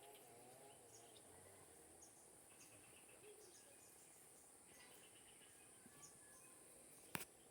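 Faint forest ambience: a steady high-pitched insect drone with scattered faint bird chirps, and one sharp knock about seven seconds in.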